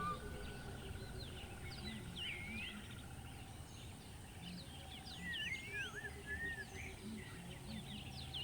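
Birds chirping, many short whistled notes sweeping up and down, over a steady hiss of outdoor background noise.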